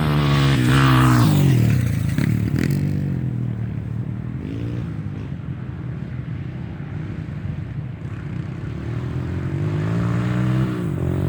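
Trail motorcycle engines revving and running, loudest with swinging pitch in the first two seconds, easing in the middle and building again near the end.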